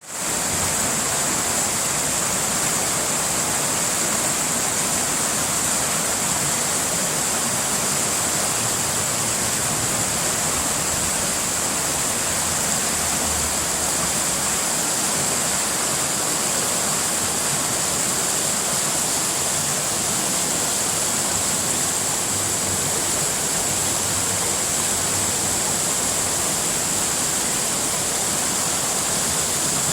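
Creek water flowing steadily over rocks: an even, unbroken hiss.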